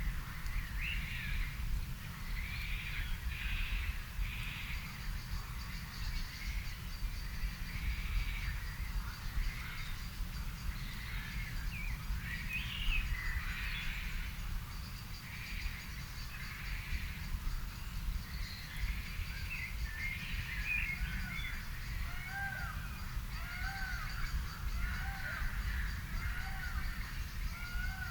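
Garden birds singing and calling over a steady low rumble. In the last third one bird repeats a short call about once a second.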